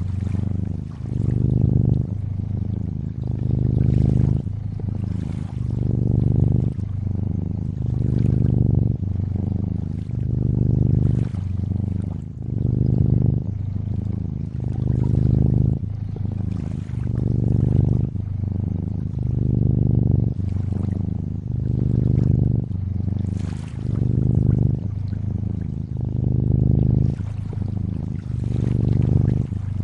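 Domestic cat purring steadily, the low rumble swelling and fading with each breath about every one and a half to two seconds, over faint trickling water.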